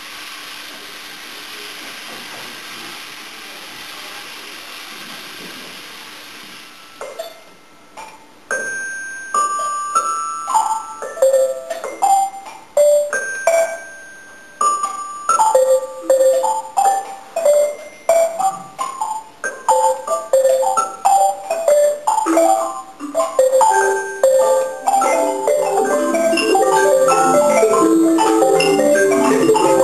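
A steady hiss, then tuned mallet percussion: single struck notes at first, coming faster and piling into a dense, louder cascade near the end.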